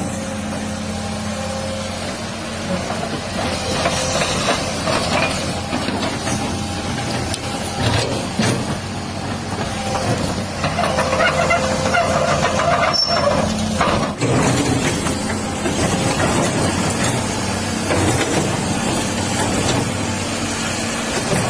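Excavator's diesel engine running steadily under load, with higher whining tones from about halfway through and occasional knocks.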